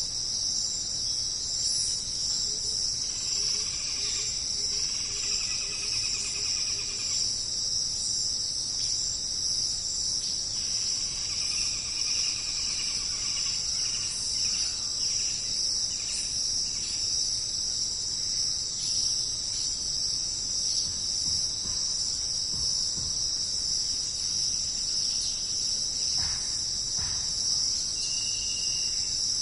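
Steady, high-pitched chorus of jungle insects, crickets or cicadas, with a few brief calls from other animals at times.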